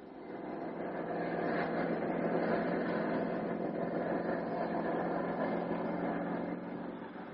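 Helicopter engines running at a steady drone with a held hum, fading in and then fading out.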